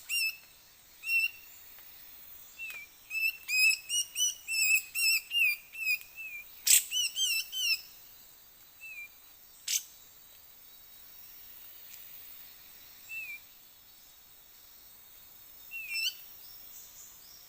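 Songbird chirping: a quick run of short, repeated chirps for several seconds, then only a few scattered chirps. Several sharp clicks stand out among them.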